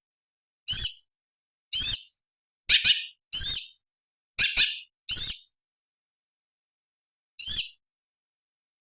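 Orange-bellied leafbird (cucak cungkok) giving short, sharp, high-pitched calls: six in quick succession, then one more after a pause of about two seconds.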